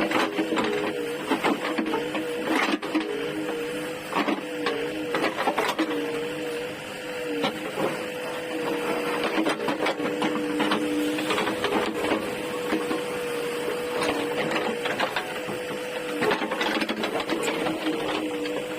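JCB 3DX backhoe loader working: a steady mechanical whine that wavers a little in pitch, with frequent knocks and clattering of rubble.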